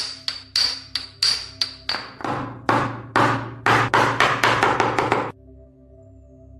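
Hammer strikes on metal, each ringing briefly, about three a second, then quicker, heavier blows that stop suddenly about five seconds in.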